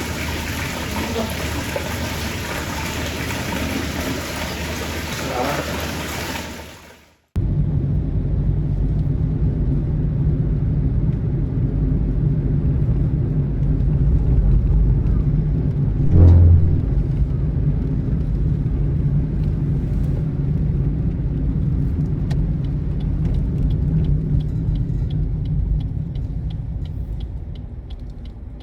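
Even rushing noise, like running water, for the first several seconds, fading and then cutting off. After that, a steady deep rumble from a motor vehicle, with one short heavy thud about halfway through.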